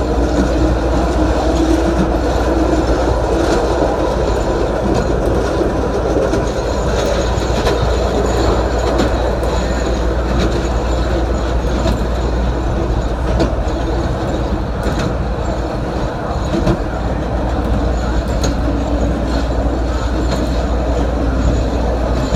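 Chicago 'L' Green Line rapid-transit train rolling along the elevated steel track: a steady rumble of wheels on rail with a constant low hum and occasional clicks.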